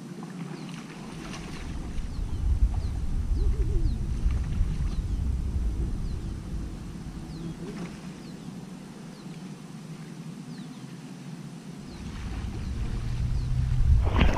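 Faint bird chirps, a run of short downward-sliding notes about two a second, over a low, uneven rumble.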